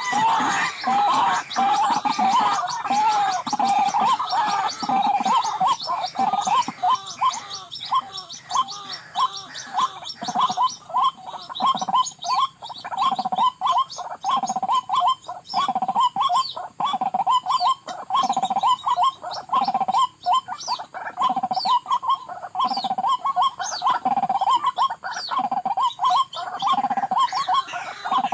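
White-breasted waterhens calling: a loud, continuous chorus of repeated gurgling 'ruak-ruak' notes in a steady rhythm, with a deeper pulse about once a second.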